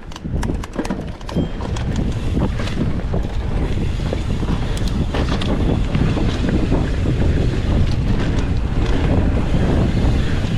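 Wind rushing over the microphone and tyres rolling over a rough dirt trail as a mountain bike picks up speed on a descent, with frequent clattering knocks from the bike over bumps.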